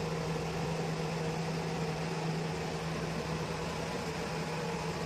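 Steady mechanical hum with a fan-like hiss, holding one pitch without change.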